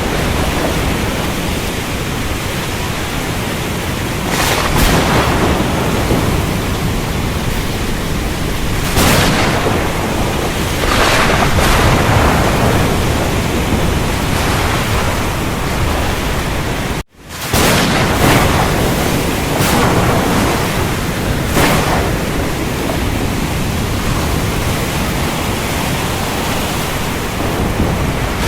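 Thunderstorm: heavy rain hissing steadily, with several short cracks of thunder. The sound cuts out for a split second about two-thirds of the way through.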